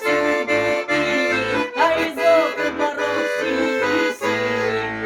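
Accordion playing the closing instrumental bars of a song, a melody over a steady pulse of bass notes. About four seconds in it settles on a long held final chord.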